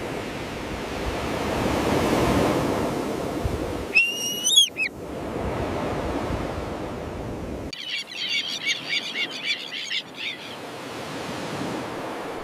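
Surf washing steadily, with common terns calling over it: a single rising call about four seconds in, then a quick run of repeated calls from about eight to ten seconds.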